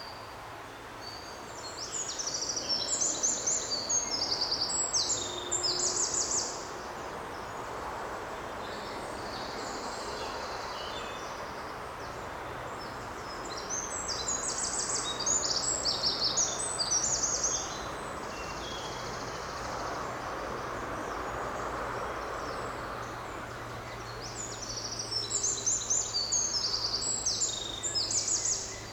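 A songbird singing three bouts of rapid, high-pitched song, each a few seconds long and about ten seconds apart, over a steady hiss of forest background noise.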